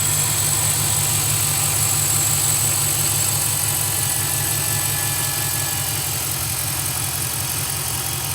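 5.7 Hemi V8 engine idling steadily, with a thin steady high-pitched whine above the low engine note.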